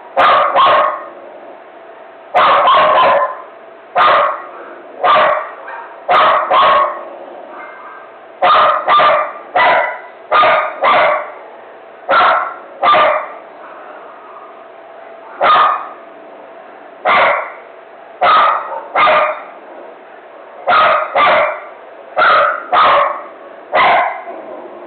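Neighbour's dog barking incessantly in frenzied bursts: short sharp barks singly and in quick pairs or threes, about one burst every second or two.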